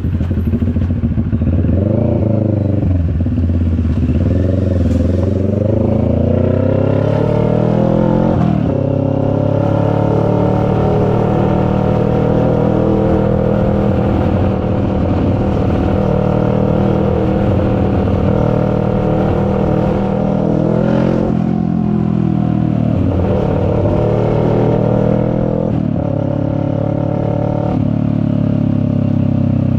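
CFMoto 400NK's parallel-twin engine under way, the revs rising and falling as the rider accelerates and changes gear. There is a long climb in revs that drops sharply about eight seconds in, then steady cruising, then a dip and another climb with a second sharp drop near the end.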